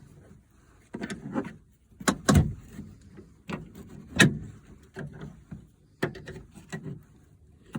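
Irregular sharp clicks and knocks of a small tool prying at the spring clip behind a manual window crank handle on a truck door panel. The two loudest knocks come about two and a half and four seconds in.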